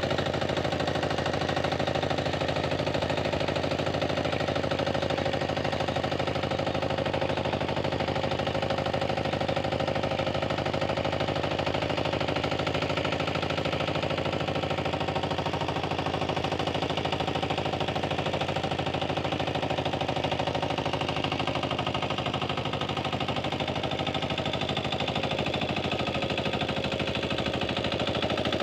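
Tractor engine running steadily in a rapid, even firing rhythm, holding a constant speed.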